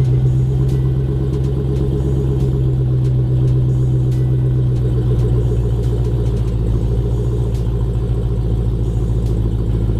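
Dodge Challenger SRT Hellcat's supercharged V8 idling steadily.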